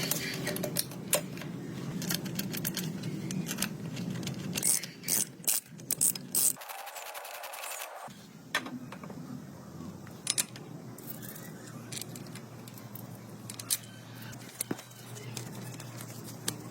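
Small metal parts clicking, clacking and scraping at irregular intervals over a low steady hum, with a cluster of louder clacks about five to six seconds in.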